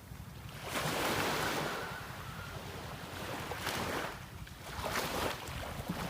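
Sea waves washing in surges, the loudest about a second in and two shorter ones near the end, over a steady low rumble of wind on the microphone.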